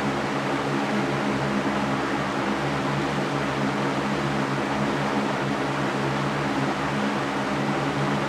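Electric fan running steadily, a constant airy hiss over a low motor hum that does not change.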